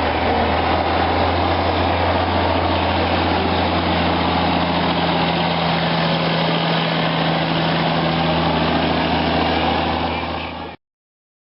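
B-Model Mack dump truck's diesel engine idling steadily, then cutting off suddenly near the end.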